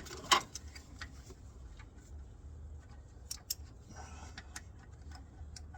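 Scattered sharp metallic clicks and taps from hand tools and parts being handled in the engine bay, over a faint low hum.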